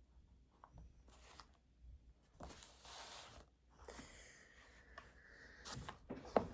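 Quiet rustling and handling sounds at a desk: a few short rustles, a longer one about four seconds in, then a sharp tap near the end.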